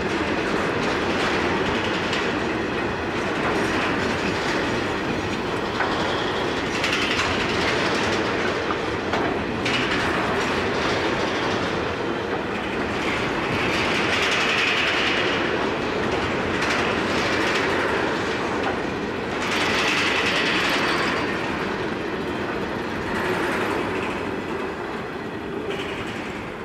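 Grain train hopper wagons rolling past on steel rails, with a couple of brief higher-pitched wheel squeals midway. The sound fades near the end as the last wagon goes by.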